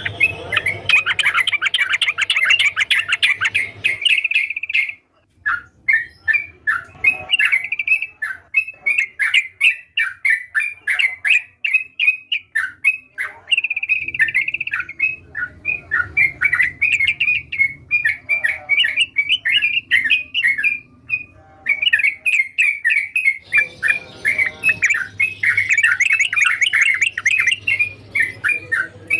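Yellow-vented bulbul (trucukan) singing in long runs of rapid, chattering notes, with a couple of brief pauses.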